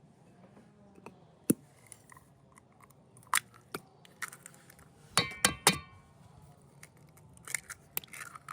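A series of sharp knocks and clinks of hard objects being handled, some ringing briefly; the loudest come as a quick cluster of three about five seconds in.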